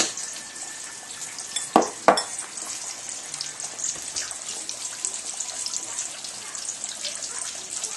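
Breaded green tomato slices shallow-frying in hot oil in a cast-iron skillet, a steady crackling sizzle. Two sharp clicks come close together about two seconds in.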